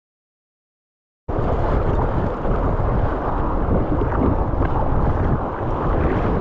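Dead silence for about the first second, then a loud, steady rush of river rapids with wind buffeting the microphone while kayaking whitewater.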